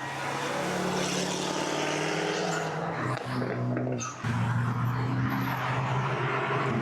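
A car engine held at high, fairly steady revs, mixed with a harsh hiss. The sound swells up loud at the start and dips briefly about four seconds in.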